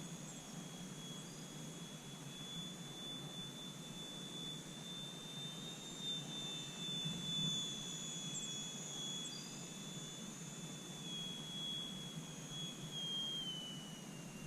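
Electric brushless motor and small propeller of a slow-flying RC airplane whining in flight, a steady high tone that drops a little in pitch near the end.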